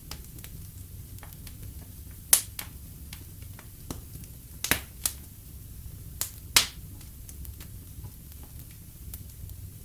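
Wood fire crackling in a fireplace: many small crackles and about five sharper, louder pops between two and seven seconds in, over a low steady rumble.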